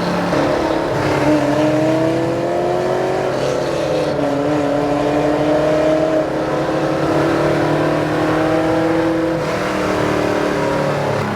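Naturally aspirated 502 cubic inch big-block V8 in a 1969 Chevelle SS pulling under way. Its note climbs slowly, dips about four seconds in, then holds fairly steady.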